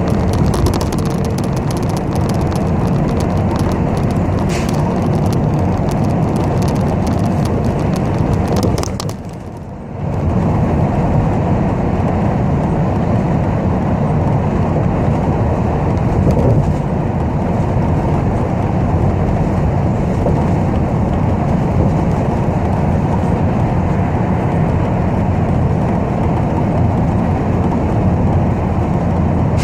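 Steady engine and road rumble inside a moving city bus, with fine rattling clicks over it. About nine seconds in the sound dips briefly, then the rumble carries on smoother, with less rattle.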